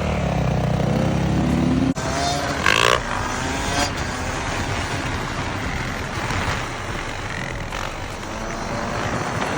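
Dirt bike engine running under way, its pitch climbing over the first two seconds. It breaks off sharply about two seconds in, then goes on as a steadier engine and wind noise.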